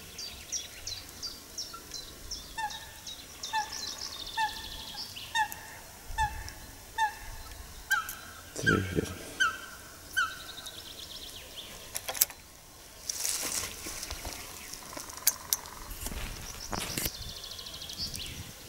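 A bird calling a run of short, evenly repeated notes, about two a second, over high chirps from small birds. A few knocks and a brief rush of noise come in the middle.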